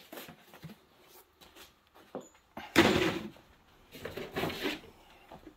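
Rummaging through tools and parts: scattered light clicks, a sharp clunk about three seconds in, and a longer rattling scrape a second later.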